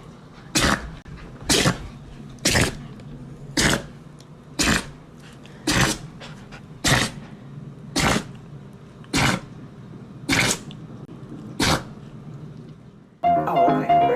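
A pet sneezing over and over, about one sharp sneeze a second, eleven in a row.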